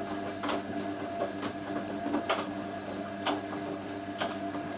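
Hoover A3060 Electronic 1100 washing machine in its wash tumble, the motor humming steadily as the drum turns, with light knocks about once a second. The owner puts the knock down to the drum bearings running loose.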